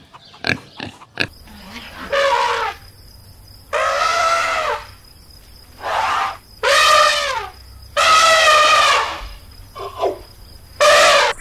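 African elephant trumpeting, about six loud brassy calls of half a second to a second each, the pitch dropping at the end of each. A pig grunts briefly at the very start.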